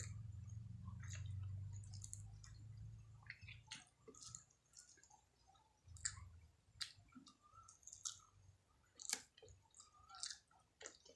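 Close-up chewing of food with wet mouth clicks and smacks, coming irregularly and faintly. A low rumble runs under the first few seconds.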